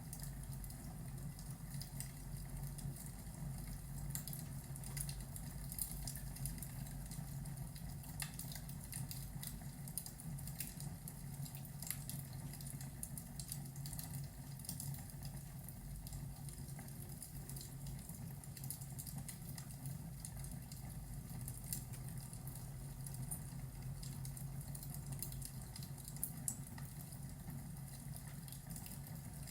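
Fireplace ambience: a wood fire crackling with sparse, irregular pops over a steady low rumble.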